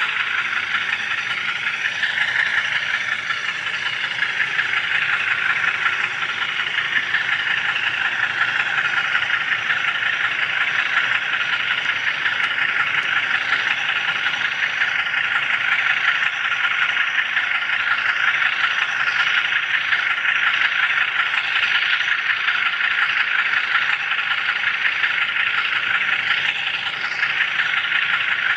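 HO scale camera car's wheels and drive rolling along model railroad track, heard close up as a steady rattling hiss.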